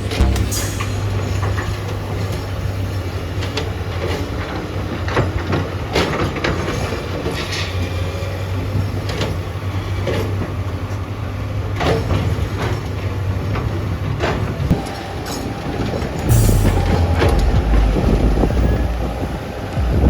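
Komatsu PC200 hydraulic excavator's diesel engine running steadily under working load, with repeated knocks and scrapes of the steel bucket against hard rock. The engine gets louder about three quarters of the way through.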